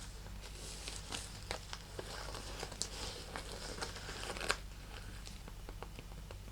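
A handbag being handled and scratched up close: crinkling and rustling with many light clicks and taps, busy for the first four and a half seconds and ending on a sharper click, then sparser soft clicks.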